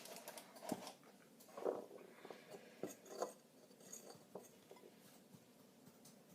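Faint, irregular taps and clinks of a utensil against a mixing bowl as a cornstarch mixture is stirred, thinning out over the last couple of seconds.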